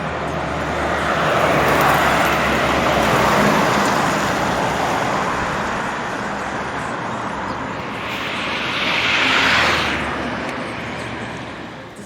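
Road traffic: a steady rush of passing vehicles, with one vehicle passing close about eight seconds in, swelling and then fading away.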